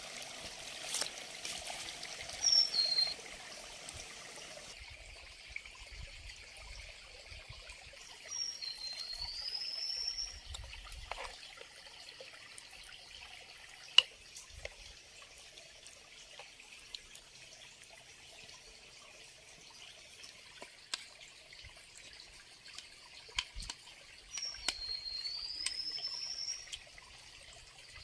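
Water trickling steadily. A bird calls three times: a short falling note a couple of seconds in, then a longer whistle that dips and rises, heard again near the end. Scattered light clicks, with one sharp click near the middle.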